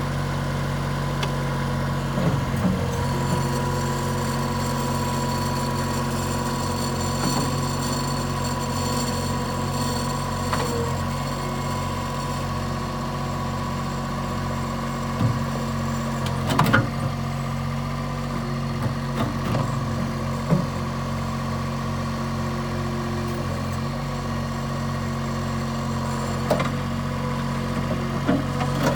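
Bobcat 463 skid-steer loader's diesel engine idling steadily at a constant speed, with a few light knocks and clatters now and then.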